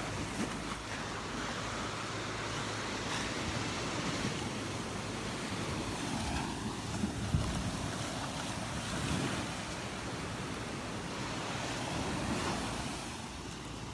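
Gulf surf washing onto the beach in slow swells, with wind buffeting the microphone.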